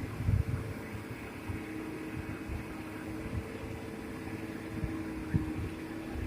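Komatsu PC200 hydraulic excavator's diesel engine running at a steady pitch, with scattered low thumps.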